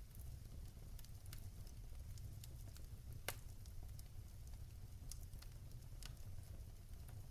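Fire crackling in a fireplace: scattered sharp pops over a low, steady rumble, with the loudest pop about three seconds in.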